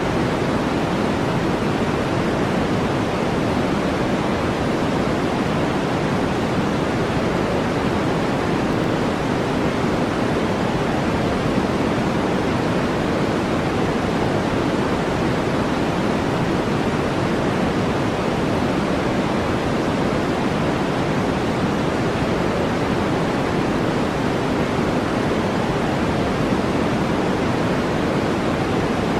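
Steady brown noise: an even, unbroken rushing hiss, heaviest in the lows and low mids, that does not change.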